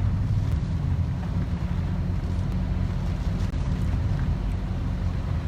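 Steady low rumble of a car driving, heard from inside the cabin: road and engine noise with a fainter hiss above it.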